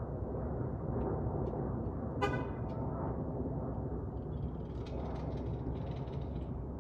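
Steady low rumble of a jet airliner's engines, the Airbus A320, with a brief horn-like toot about two seconds in.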